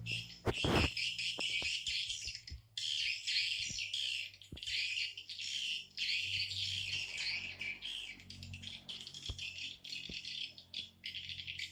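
Swiftlet call recording used as a lure for swiftlet nesting houses: dense, continuous high-pitched twittering chatter of many swiftlets, with brief breaks and scattered sharp clicks.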